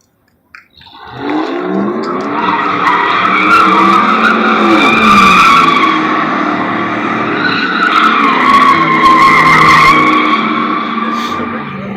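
Tires squealing in a sustained burnout while the engine revs up and down underneath. It starts about a second in, after a brief silence.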